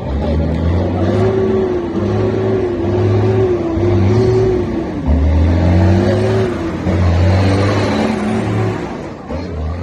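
Heavy truck's diesel engine revving under load; its pitch sags at a gear change about five seconds in, then climbs again before easing off near the end.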